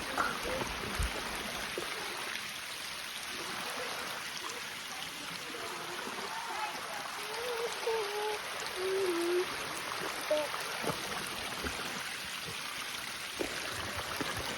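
Steady rushing hiss of water throughout.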